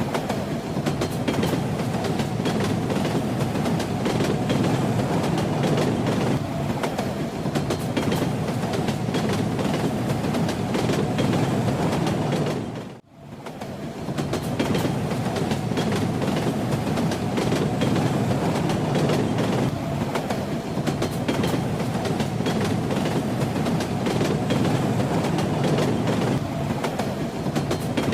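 Train running on rails: a steady rumble with the clatter and rattle of the wheels on the track. About halfway through the sound drops out briefly, then comes back.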